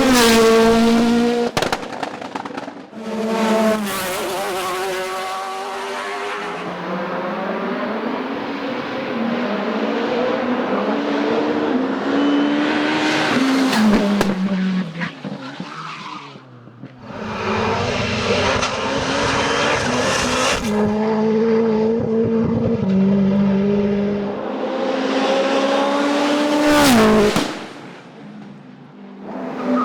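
Hill climb race car engines at full throttle. Their pitch climbs and drops sharply at gear changes as the cars pass, in several separate runs with sudden changes between them.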